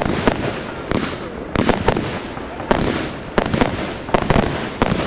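Fireworks display: about a dozen loud, sharp bangs of shells bursting, several coming in quick clusters, each trailing off in echo over continuous crackling noise.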